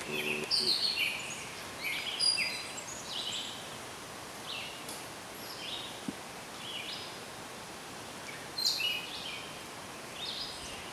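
Birds chirping, a string of short high calls coming again and again over a steady outdoor hiss, busiest at the start and again near the end.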